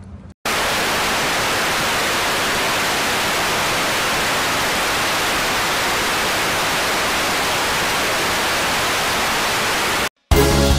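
Loud, steady hiss of TV static (white noise) that starts abruptly about half a second in and cuts off suddenly near the end: the sound of a lost broadcast signal. A burst of music follows right after.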